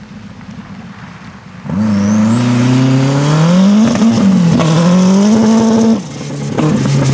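Historic rally car accelerating hard, its engine coming in loud and suddenly and climbing in pitch through the gears, with a brief dip at a gear change, then lifting off sharply near the end.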